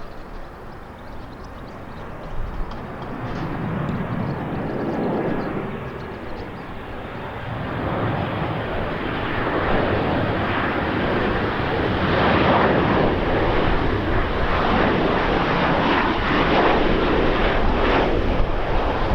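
Airliner engine noise: a steady rushing sound that grows louder from about halfway through and stays loud to the end, as the aircraft comes closer.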